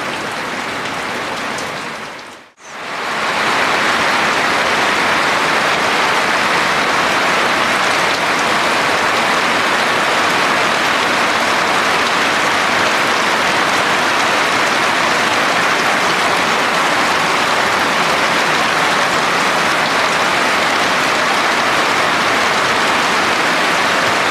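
Steady rain falling in a continuous even hiss. It drops out briefly about two and a half seconds in, then comes back louder.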